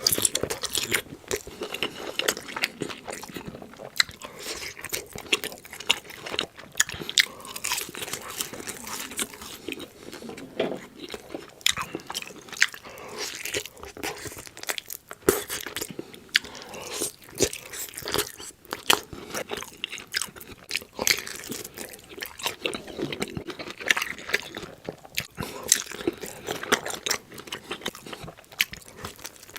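Close-miked eating: crunchy bites and chewing, a dense run of sharp crunches and crackles.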